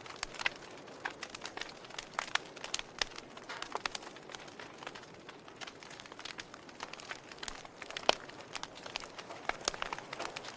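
Fire crackling: irregular sharp pops and snaps over a soft, steady hiss, with the loudest pop about eight seconds in.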